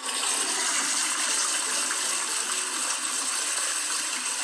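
Toilet flushing: a steady rush of water that holds at an even level throughout.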